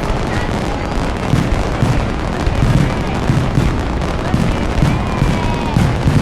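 Aerial fireworks going off in quick succession: a dense run of booms, several a second, with crackling over a crowd's voices.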